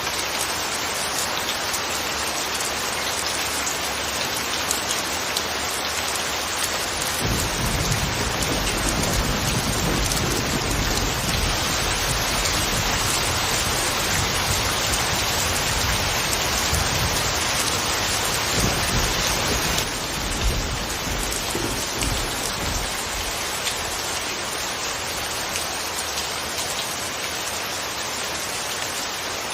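Steady rain falling in an even hiss, with a long low rumble of thunder from about a quarter of the way in until past the middle.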